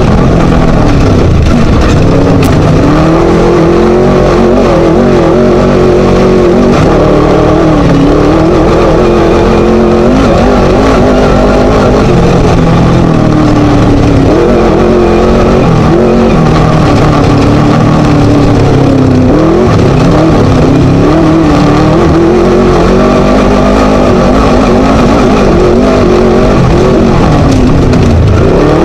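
Class 1 desert race buggy with a Scat engine running hard and loud, its revs rising and falling over and over without letting up.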